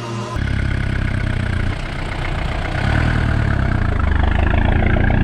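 Peugeot 505 turbo diesel engine running steadily after music cuts off about half a second in; it gets louder and revs up a little about three seconds in.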